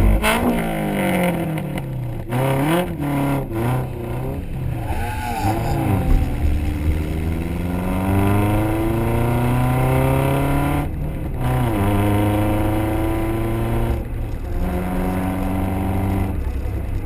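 Honda CRX engine and exhaust on track, its pitch falling and swinging up and down for the first few seconds, then climbing steadily under acceleration, broken three times by short upshifts.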